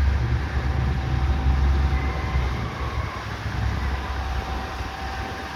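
Heavy diesel drag truck doing a burnout: the engine runs hard while the drive tyres spin, a deep rumble over a wash of tyre noise that eases off over the seconds.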